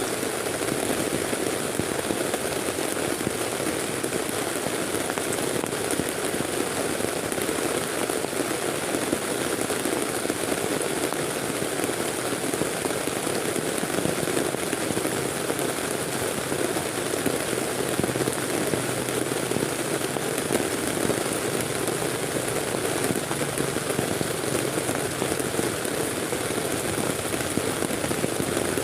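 Heavy rain falling steadily on a tent, a dense even patter with no let-up.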